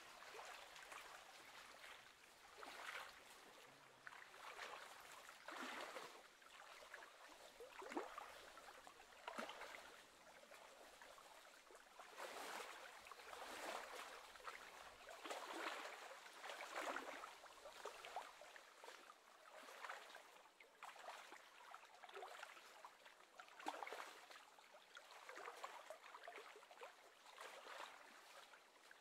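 Small wavelets lapping and splashing against the shore, faint, in irregular soft splashes every second or two.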